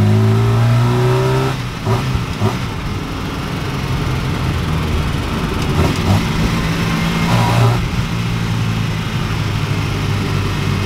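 1969 Ford Capri Mk1's Pinto four-cylinder engine pulling the car under acceleration. Its note rises for the first second and a half, dips briefly, then runs on at steady revs. The engine is running smoothly on freshly adjusted valve clearances.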